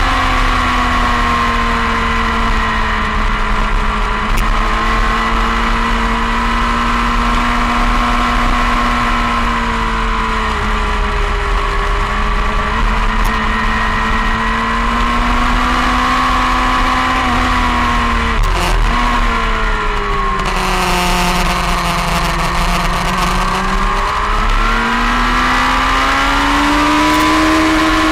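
Onboard motorcycle engine at speed on a race track, with steady wind rush. The engine note sinks slowly as the bike slows for corners, drops sharply at a quick gear change about two-thirds of the way through, then climbs as the bike accelerates near the end.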